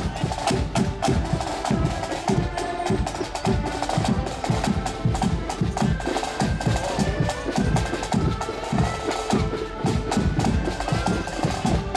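Marching accordion band playing a tune: accordions hold the melody over a steady march beat of bass drum and snare drums.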